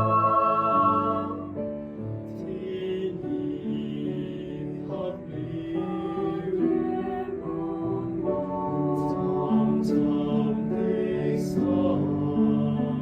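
Four-part mixed choir singing a slow Cantonese song in held, sustained chords, with piano accompaniment.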